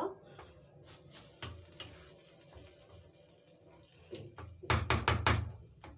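Metal spoon stirring and scraping in a pan of ful (fava beans) cooking with spices, with a few light knocks, then a quick run of loud clatters of metal on the pan about five seconds in.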